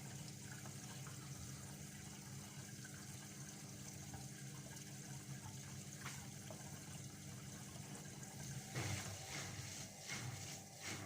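Washing machine at its drain stage: the drain pump hums steadily while water trickles out. About nine seconds in, a louder, rougher, irregular knocking sound joins it.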